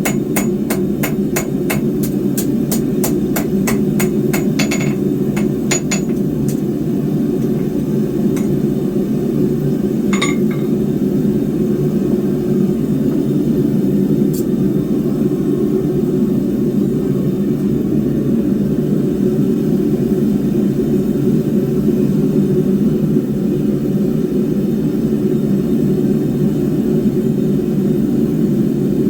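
Hand hammer striking hot 10 mm square steel bar on an anvil, about four ringing blows a second for the first five seconds, then a few single clinks later on. Underneath, the forge runs with a steady low rumble.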